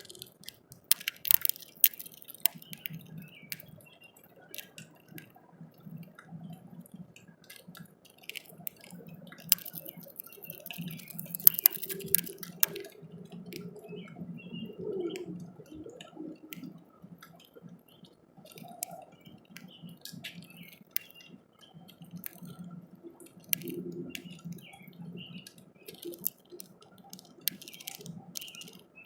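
Small bird pecking and cracking seeds at a bird feeder close to the microphone: irregular sharp clicks and taps of its beak on the seeds and the feeder, busiest a second or two in and again around ten to thirteen seconds in.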